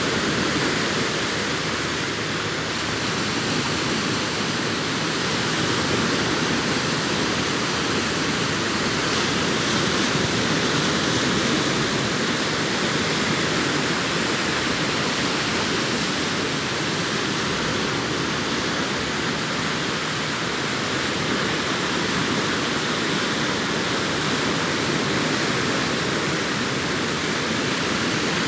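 Sea surf on a beach: waves breaking and washing in a continuous rushing noise that swells and eases gently.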